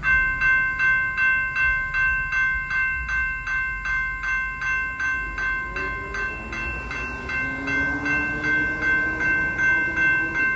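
Railroad crossing warning bell ringing steadily, about two and a half strikes a second, with a fainter lower tone rising underneath in the second half.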